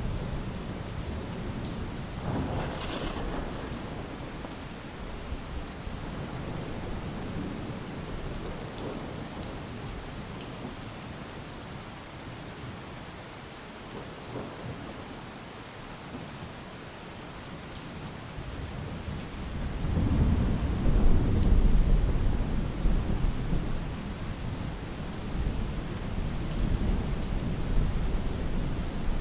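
Steady rain falling, with a long, low thunder rumble swelling about two-thirds of the way through and slowly fading.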